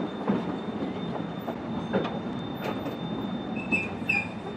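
Narrow-gauge train running, heard from inside a carriage: a steady rumble of the wheels with a few sharp clicks over the rail joints. Near the end a short high squeal from the wheels comes as the train draws into a station.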